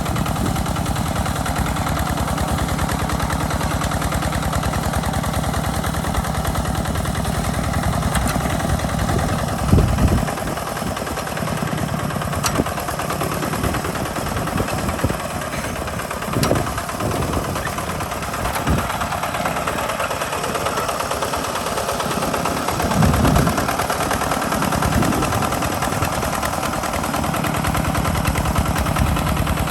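Walking tractor's single-cylinder diesel engine chugging steadily under ploughing load, its rapid firing beats even throughout, with brief louder low surges about ten, sixteen and twenty-three seconds in.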